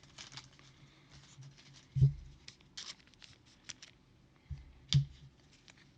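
Trading cards and plastic card sleeves being handled on a table: light scratchy rustles and small clicks, with two knocks about three seconds apart.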